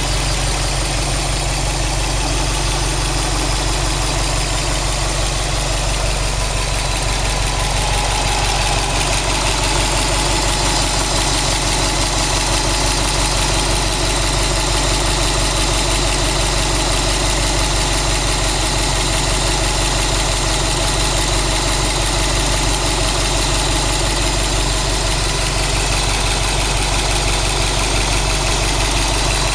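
Subaru WRX STI's turbocharged flat-four boxer engine idling steadily at operating temperature, with a knocking noise that the owner suspects in the freshly replaced engine.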